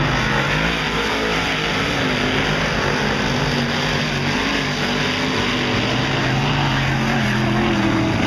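Big-block dirt modified race cars' V8 engines running together on a dirt oval, their pitch wavering up and down as they rev through the turns.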